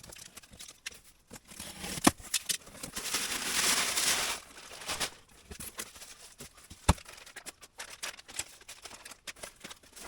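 A rebuild kit's packaging being opened and handled: scattered sharp clicks and taps, with a longer stretch of rustling about three to five seconds in.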